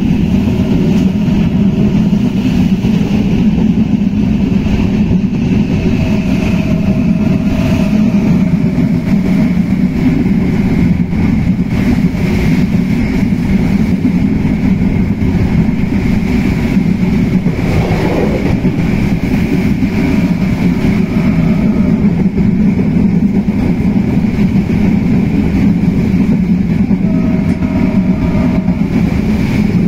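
Bangladesh Railway passenger train running at speed, heard from on board: a steady, loud rumble of wheels on the track with wind noise.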